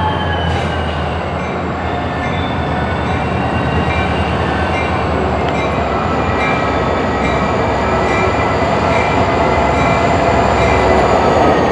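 Freight cars rolling slowly through yard track, wheels squealing in several high thin tones that drift slowly in pitch over a steady low rumble.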